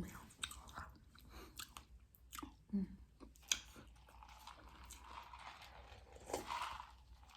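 Close-up chewing and crunching of tortilla chips loaded with toppings, with irregular crisp crackles and mouth sounds.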